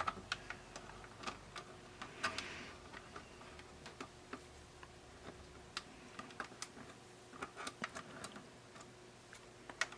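Faint, irregular small clicks and taps of tools and small parts being handled during an electronics repair, with a brief rustle a little after two seconds in.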